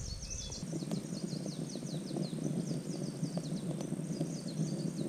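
Forest ambience: a small bird's rapid high trill of quick repeated falling chirps, over a steady low rustling noise with faint scattered ticks.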